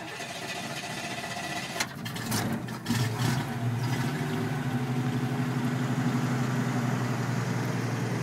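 A 1965 Chevy pickup's engine being started: it cranks briefly and catches about three seconds in, then idles steadily through the dual exhaust.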